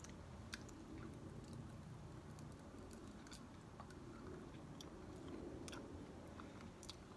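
Faint chewing of a crunchy peanut-brittle hard candy, with scattered small crunching clicks as it is bitten.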